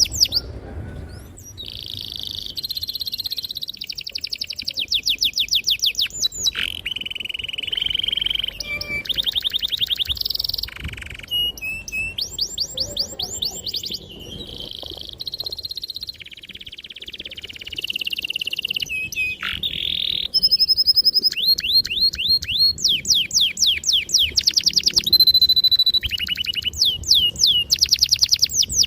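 Domestic canary singing a long, unbroken song: fast rolling trills of rapidly repeated notes alternate with held whistled notes and quick downward-sweeping chirps.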